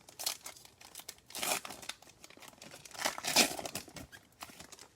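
A trading card pack wrapper being torn open and crinkled by hand, in a few short bursts of rustling, the loudest about three and a half seconds in.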